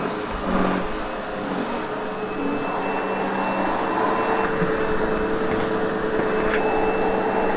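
Sebo X8 upright vacuum cleaner running over carpet, a steady rushing noise with a constant motor whine.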